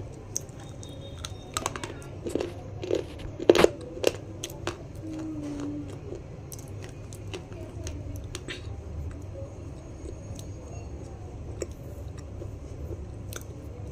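A crunchy snack being bitten and chewed close to the microphone: a run of loud crisp crunches in the first few seconds, then quieter chewing with scattered crackles.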